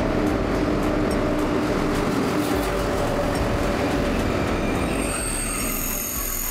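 Korea Train Express (KTX) high-speed train running along a station platform: a steady rumble of wheels on rail with a steady hum. Several high-pitched steady tones come in about five seconds in.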